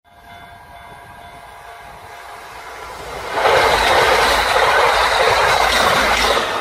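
Kintetsu electric train passing at speed: a moderate approach sound with a few steady tones, then about three and a half seconds in a sudden loud rush of wheel and air noise as the train goes by.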